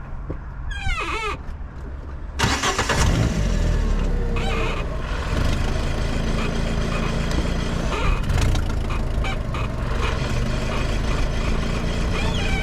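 A vehicle engine starts suddenly about two and a half seconds in and keeps running steadily.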